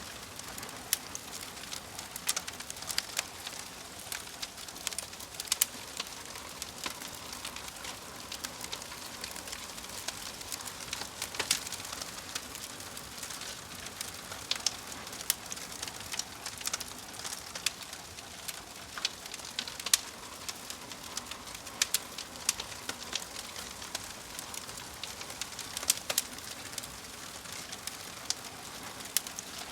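Wood fire crackling: irregular sharp pops and snaps over a steady soft hiss. A bird calls in the background.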